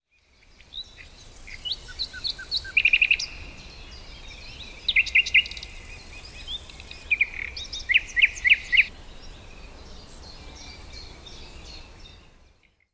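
Songbirds singing and chirping over a faint, steady outdoor background, with bursts of quick trills now and then. The sound fades in at the start and fades out near the end.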